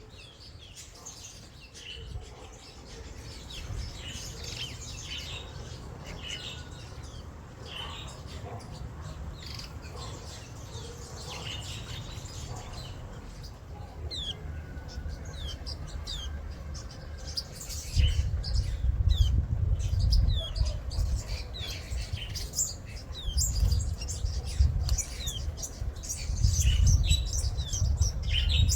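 Small garden birds chirping: many short, quick falling chirps, scattered throughout. A low rumble underneath grows much louder about two-thirds of the way in.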